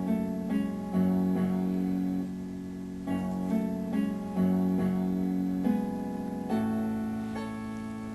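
Instrumental background music in a plucked guitar sound, composed on a computer, with new notes and chords struck about every second.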